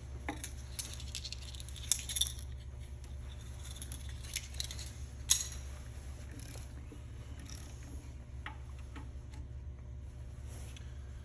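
Scattered light metallic clinks and taps of hand tools and engine parts being handled during an engine teardown, the sharpest about two seconds and five seconds in, over a steady low hum.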